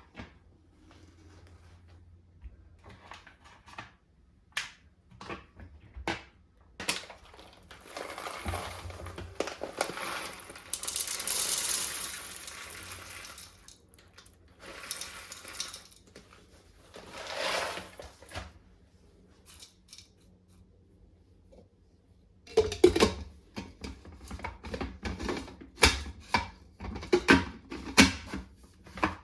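Kitchen handling sounds: scattered clicks and knocks, a few longer rustling or pouring stretches, then a quick run of clattering knocks near the end.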